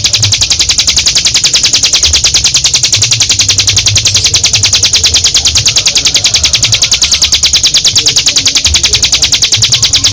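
Ciblek gunung singing its long drilling 'ngebren' song: one unbroken, fast, even trill of high notes.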